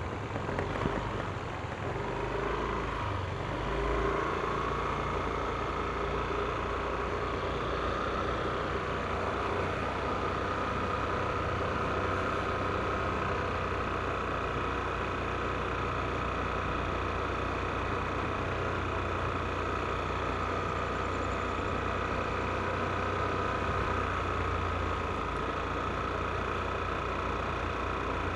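Yamaha NMAX scooter's single-cylinder engine running steadily, with a constant whine over a low hum and a few short knocks in the first second.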